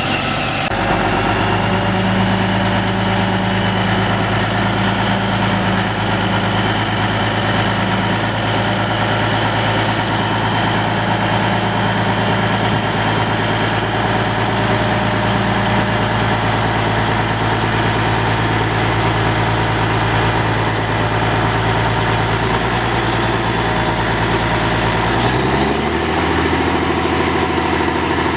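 Peterbilt 379 dump truck's heavy diesel engine idling steadily; near the end its speed rises a little and the note climbs.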